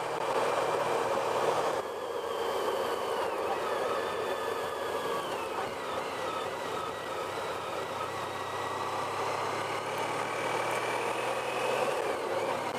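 Honda Pan European motorcycle on the move, heard from a helmet-mounted microphone: a steady rush of wind and road noise over the engine, with a faint whine that falls slowly in pitch in the first half.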